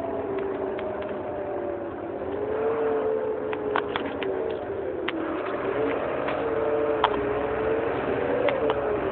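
Heuliez GX 327 city bus engine running steadily, its drone slowly rising and falling in pitch, with scattered sharp clicks and rattles over it.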